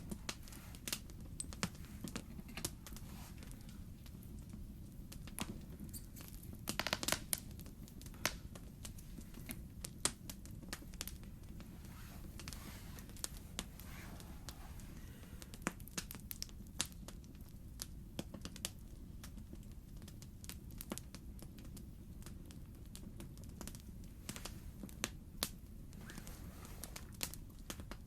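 Wood campfire crackling, with irregular sharp pops and a short flurry of crackles about seven seconds in.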